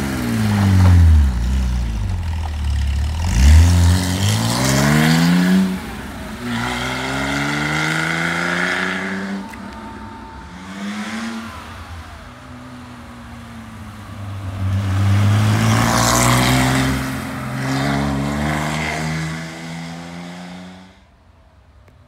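Porsche 911S 2.7's air-cooled flat-six with a Dansk sport exhaust, accelerating hard through the gears: the revs climb, drop back at each shift and climb again, the sound growing quieter in the middle and louder again later. It falls away sharply about a second before the end.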